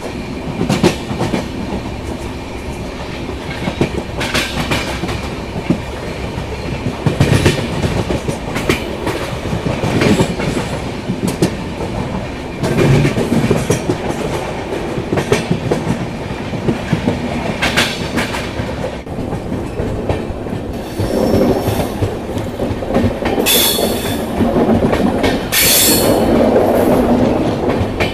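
Indian Railways LHB passenger coaches running at speed, heard from an open coach doorway: a steady rumble of wheels on rail, broken by irregular clacks as the wheels cross rail joints and points.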